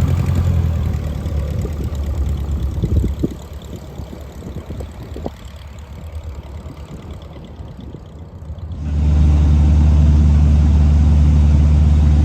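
An engine running steadily with a low, even hum. For a few seconds in the middle it drops to a quieter stretch of scattered clicks and knocks, then comes back in abruptly and loud near the end.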